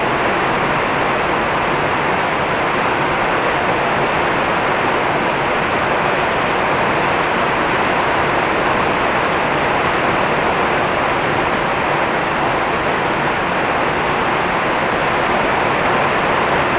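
Heavy rain pouring down in a downpour, a loud, dense, steady hiss that holds unchanged throughout.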